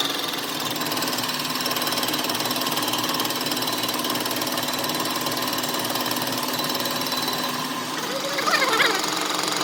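A machine running steadily with a rapid, even mechanical rattle. Near the end a brief wavy pitched call, like a voice or bird chirp, rises over it.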